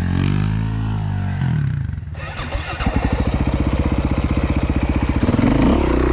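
Dirt bike engine close to the microphone: the revs rise and fall over the first second and a half and drop off about two seconds in. It then settles into a low, even thumping run at low revs.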